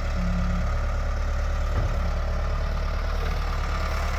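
Backhoe diesel engine running steadily while the machine holds up a heavy tree root ball, with a brief hydraulic-sounding whine near the start and a single knock about two seconds in.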